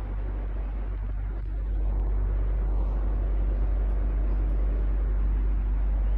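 Electric fan running steadily: an even rush of moving air over a low motor hum, growing a little louder about two seconds in.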